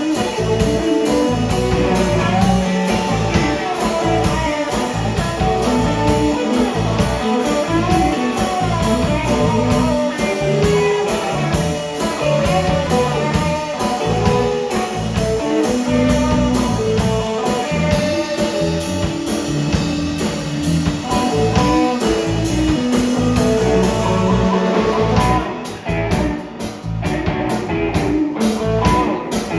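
Blues band playing an instrumental section: a lead electric guitar solo over rhythm guitar, bass and drums. Near the end the band briefly drops back and gets quieter before picking up again.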